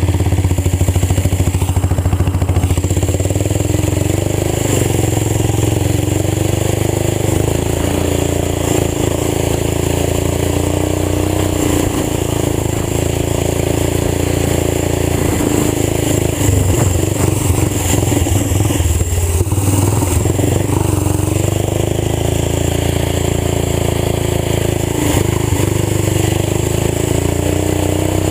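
Old tractor engine running through a fully open exhaust, warm and freshly started. It runs steadily, its pitch rising and falling a little, with a brief dip about two thirds of the way through.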